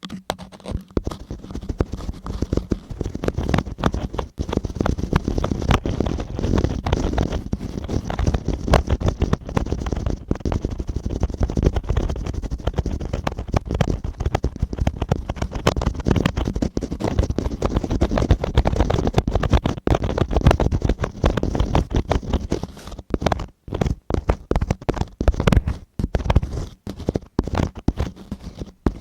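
Close-miked ASMR ear cleaning: dense scratching and crackling of a tool worked right against the microphone, full of sharp clicks with a low rumble beneath, pausing briefly a few times near the end.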